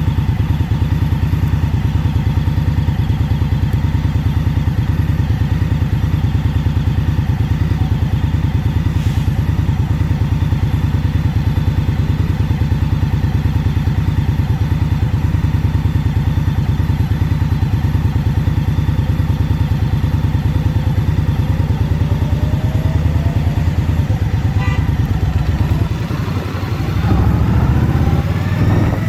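Indian Scout Bobber Twenty's V-twin engine running steadily with an even low pulse, then revving up near the end, rising in pitch.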